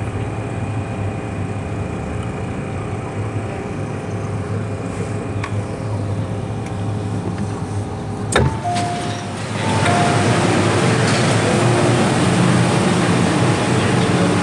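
Inside an MTR M-train carriage: a steady hum from the train's equipment, a sharp click about eight seconds in, then a louder, even rushing noise of the train from about ten seconds in.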